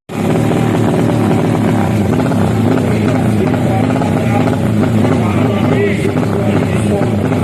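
Drag-racing motorcycle engines revving, their pitch rising and falling over and over with the throttle.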